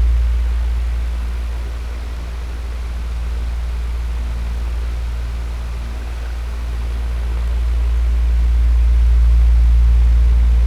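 Electric fan running: a steady rush of air over a low motor hum, slowly swelling and fading in loudness.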